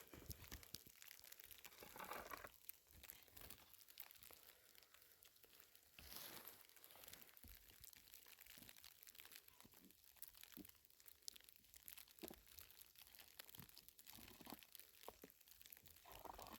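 Faint crinkling and rustling with scattered small clicks, close to near silence.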